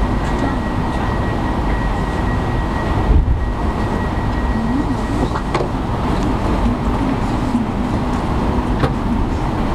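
Passenger train running, a steady rumble with a faint steady tone that fades about halfway through and a few sharp clicks.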